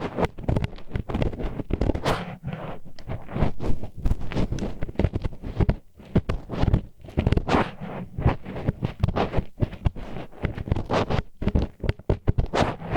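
Disposable wooden chopsticks scraping and rubbing inside a microphone's ear in quick, irregular strokes, a rough grinding scratch.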